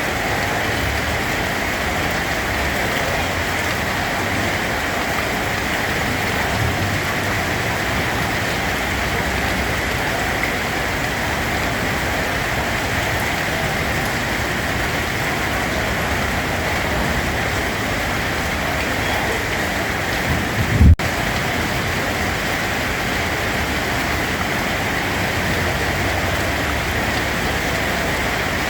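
Steady rain falling, an even continuous hiss. One brief low thump comes about two-thirds of the way through.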